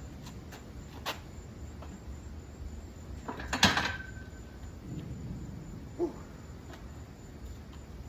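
Loaded 135 lb barbell clanking during a set of squats: a few light knocks, one loud metallic clank about halfway through with a brief ringing tone, and a smaller knock near the end.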